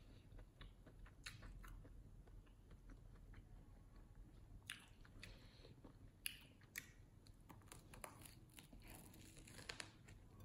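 Faint close-up chewing and biting of a crusty banh mi baguette sandwich, with scattered crisp crunches. A few sharper crunches come around five to seven seconds in, and a cluster comes near the end as a new bite is taken.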